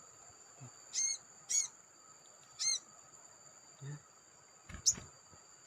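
A small bird gives three short, sharp call notes within the first three seconds, over a steady high-pitched insect drone. A sharp click comes near the end.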